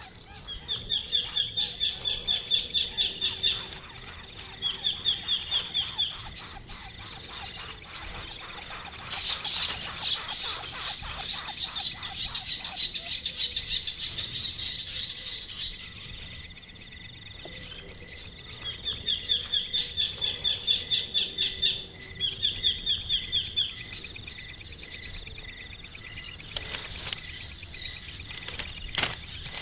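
Insect chirping in a fast, steady pulse, with short high trilled bird calls repeated every few seconds. The chirping stops for a couple of seconds about halfway through.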